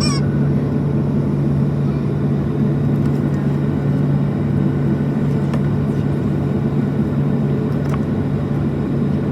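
Steady low hum and rumble inside the cabin of a Boeing 737-700, from its engines and air system, holding level with no build-up, with a couple of faint clicks.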